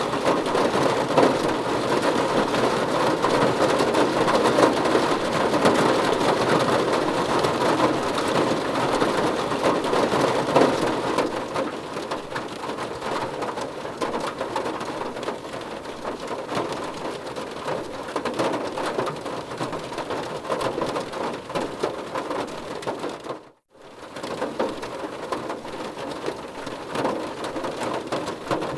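Heavy rain falling in a dense, steady patter, easing a little about eleven seconds in. It cuts out completely for a moment about twenty-three seconds in, then resumes.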